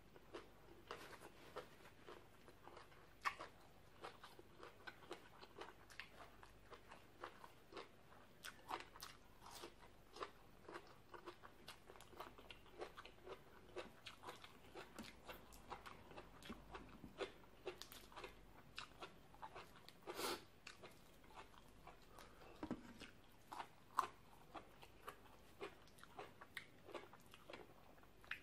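Close-miked chewing of crisp raw vegetables from a green papaya salad: a quiet, irregular run of short crunches, a few a second, with some louder crunches among them.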